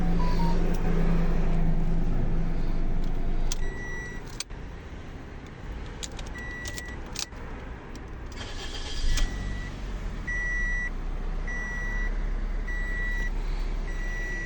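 2008 Toyota Corolla engine idling, then shut off about three and a half seconds in, followed by clicks from the key and ignition switch. A dashboard warning chime then beeps repeatedly, about once a second near the end.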